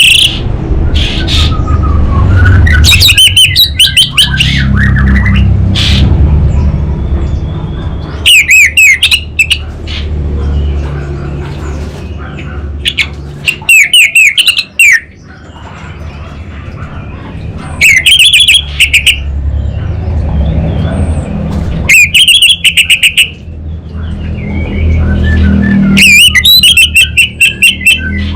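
Orange-headed thrush singing in loud phrases about every four to five seconds, each a rapid run of high chattering notes, over a steady low rumble.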